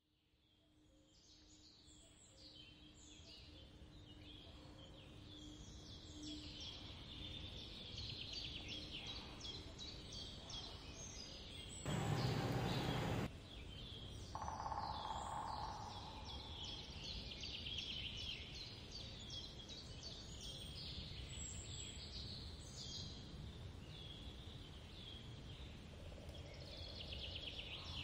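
Birds chirping continuously in many short, quick notes, fading in over the first few seconds. About twelve seconds in there is a loud burst of noise lasting just over a second, followed shortly by a brief steady tone.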